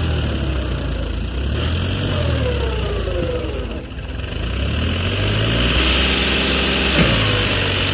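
Sonalika DI 47 RX tractor's diesel engine running. Its speed drops to a low point about halfway through, then picks up again.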